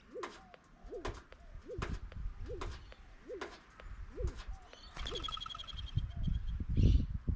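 A pigeon or dove gives short cooing notes about once every 0.8 s, mixed with sharp clicks. About five seconds in, a small bird gives a rapid high trill, and low thumps come near the end.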